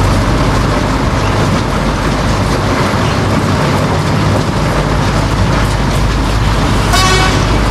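Small narrow-gauge tourist train running along its track: a steady, loud rumble of the locomotive and wheels, with a brief high-pitched tone near the end.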